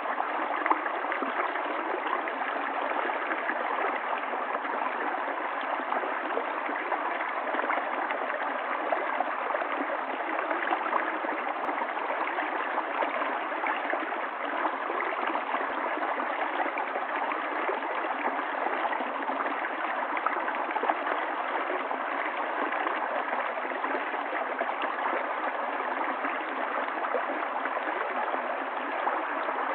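Stream of water flowing steadily, with a continuous gurgling rush.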